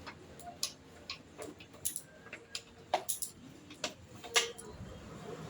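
Irregular light metallic clicks and taps, about a dozen, from tools and parts being handled during motorcycle repair work.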